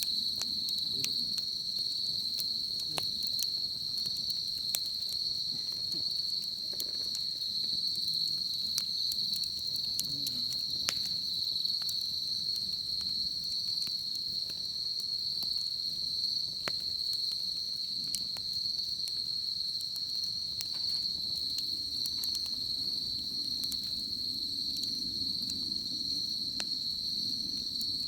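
Wood fire crackling with scattered sharp pops, over a steady, unbroken high-pitched chirring of insects.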